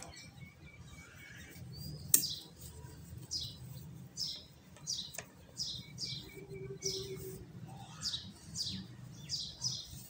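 A small bird chirping over and over, short falling notes about two a second. There is a sharp click about two seconds in and a fainter one about five seconds in.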